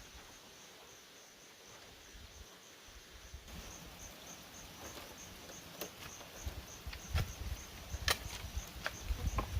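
Insects chirping in a steady, evenly pulsing high trill. From about six seconds in come a few sharp knocks, growing more frequent near the end.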